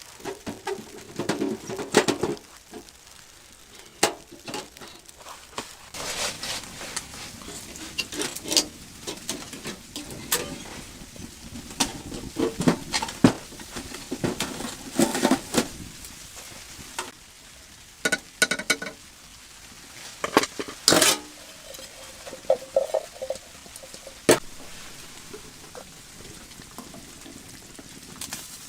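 Irregular knocks, clinks and scrapes of things being handled, with short stretches of hiss between them.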